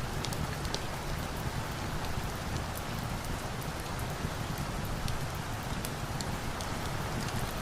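Steady rain, an even hiss over a low rumble, with scattered small sharp ticks throughout.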